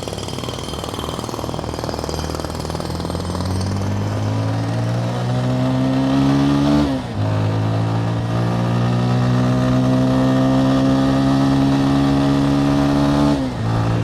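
Motorcycle engine pulling up through the gears. The pitch climbs steadily, dips with a brief break for an upshift about halfway through, climbs again, and shifts up once more near the end.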